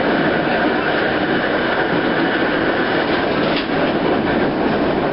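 Streetcar running along its rails, heard from on board: a steady running noise with a few faint clicks from the wheels on the track.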